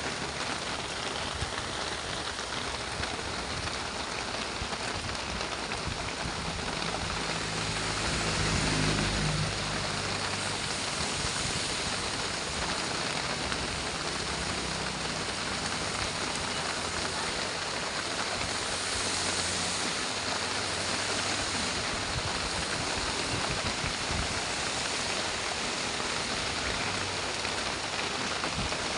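Heavy rain falling steadily, over the low hum of a truck's engine, which briefly grows louder about eight to ten seconds in.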